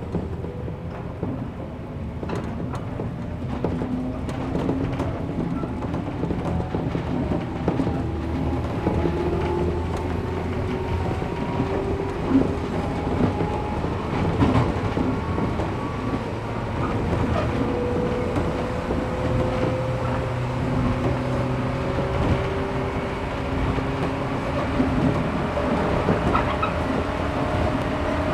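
Heard from inside the car, a 113 series electric train on resistance control running along the line, its motor whine rising slowly and steadily in pitch as it gains speed. The wheels click over rail joints now and then.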